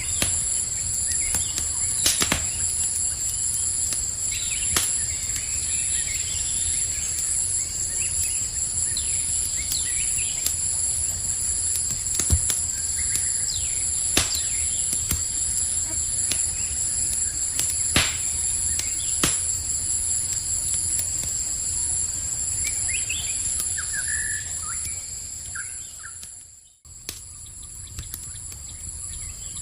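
Campfire crackling with a handful of sharp pops over a low rumble, against a steady high-pitched chorus of night insects and a few faint bird chirps. Near the end the sound cuts out briefly and comes back quieter.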